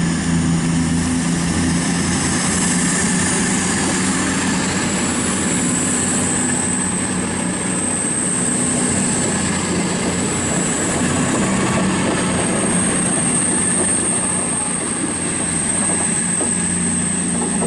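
A CrossCountry diesel train's engines running as it pulls out of the station, a steady drone with a high whine over it.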